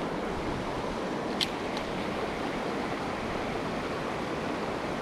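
Creek water rushing steadily over rocky shoals, with a single short click about one and a half seconds in.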